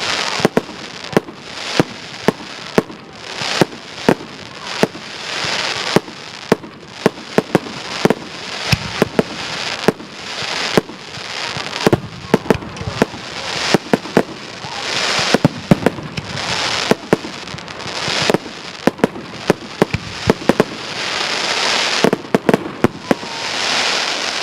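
Aerial fireworks display: a rapid, irregular barrage of sharp bangs from shells bursting, several a second at times, over swelling waves of crackling hiss that build and fade every few seconds.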